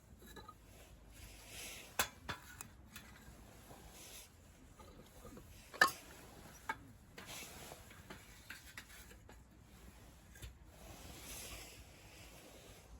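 Camp cookware and utensils being handled: scattered light clinks and knocks, the sharpest about two seconds in and loudest about six seconds in, with soft rustling between.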